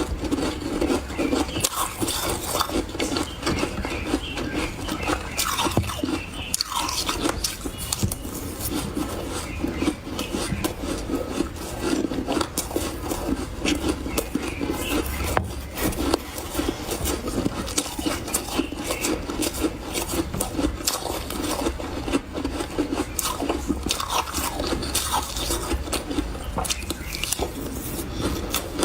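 Close-up chewing of refrozen powdery ice in big bites: a steady run of soft, crackly crunches with many small clicks.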